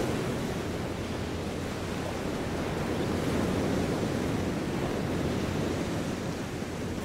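A steady rushing noise, heaviest in the low and middle range, with no clear pitch or rhythm.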